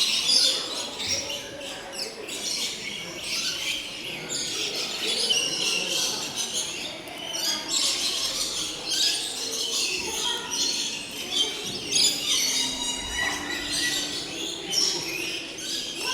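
Many birds chirping and calling at once in a dense, unbroken chatter, with a fast trill a little past the middle.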